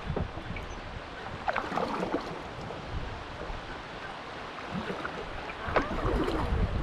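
River water running and lapping around a kayak, with wind rumbling on the microphone toward the end.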